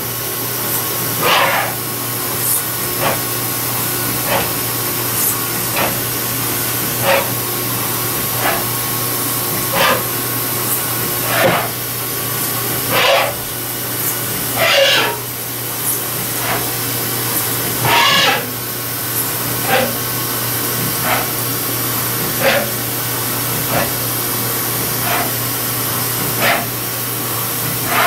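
Haas VF-2 CNC mill cutting a part under a steady hiss, with a short squealing burst from the cutter about every one to two seconds as it engages the material. Some bursts glide up or down in pitch.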